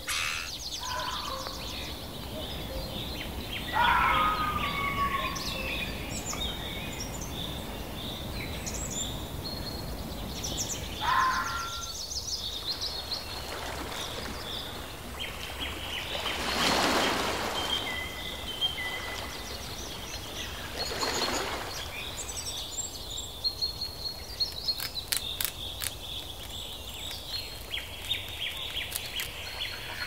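Outdoor ambience with scattered bird calls and chirps over a steady background, two short swells of hiss-like noise about halfway through, and a run of quick clicks later on.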